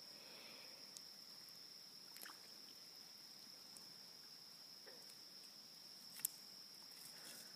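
Near silence at night by a river: a faint, steady high-pitched insect trill, crickets, with a few faint clicks and one sharper click about six seconds in.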